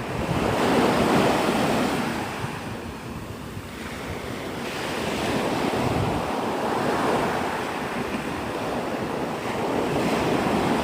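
Gulf surf breaking and washing up the beach, rising and falling in waves, with wind buffeting the microphone.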